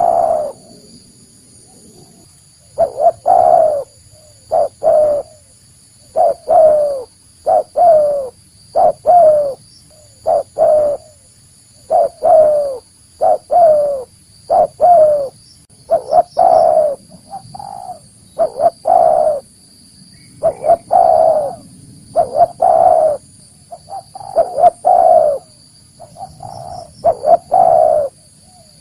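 Spotted dove (tekukur) cooing: short phrases of two or three coos, each falling slightly in pitch, repeated every second or two. This is the kind of recorded call used to lure wild doves.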